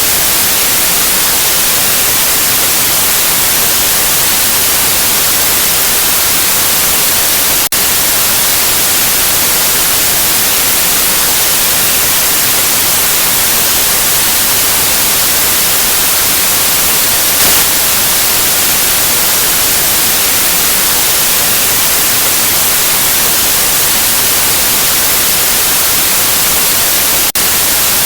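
Steady, loud white noise hiss, even across the whole range with the most energy in the highs. It dips very briefly twice, about eight seconds in and near the end.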